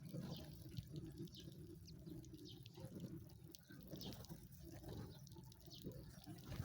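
Sparrows chirping faintly: scattered short, high chirps over a low background rumble.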